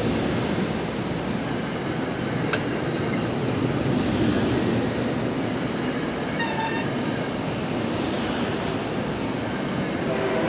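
Steady rumble of a train running on the rails. A short, high horn toot sounds about six and a half seconds in.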